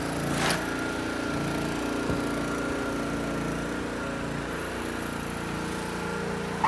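An engine running steadily at an even speed, with a brief scraping rasp about half a second in.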